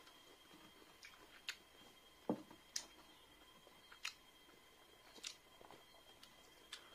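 Quiet close-up eating sounds of rice and chicken curry eaten by hand: chewing and wet lip smacks, heard as sharp clicks about once a second, the loudest a little over two seconds in, over a faint steady high tone.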